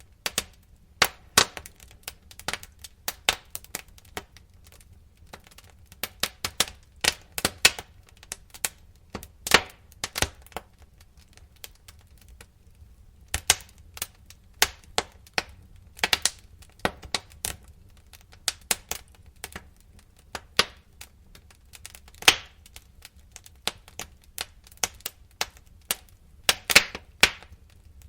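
Wood fire crackling: irregular sharp pops and snaps, some in quick clusters, over a faint low rumble.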